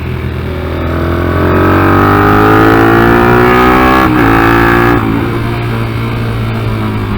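Yamaha TTR125-based 150 cc big-bore four-stroke single in a Kayo MR125 pit bike revving up under acceleration, rising in pitch and getting louder, with a brief break about four seconds in as if for a gear change. About five seconds in the throttle closes and the engine note drops.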